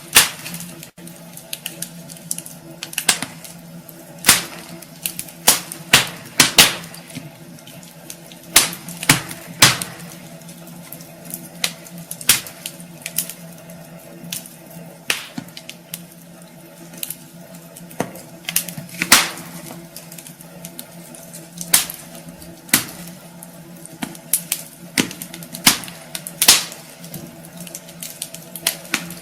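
Wood fire in a fireplace crackling, with irregular sharp pops and snaps from the burning logs over a low steady hum.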